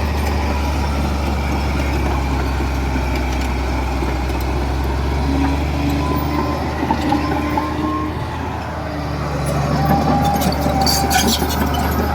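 Komatsu D31P bulldozer's diesel engine running steadily under load, its steel tracks squealing in held high tones and clanking near the end.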